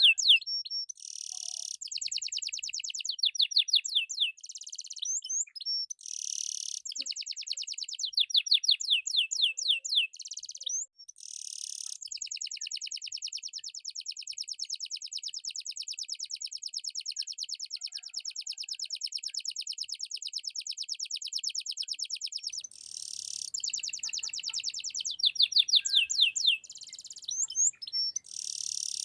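Domestic canary singing a continuous song of fast, high trills and rolls, with one unbroken roll lasting about ten seconds.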